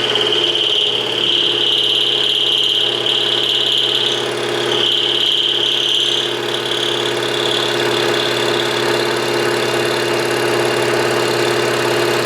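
Milling machine running and cutting metal: a steady motor hum under a high singing tone from the cut that swells and fades, strongest in the first half.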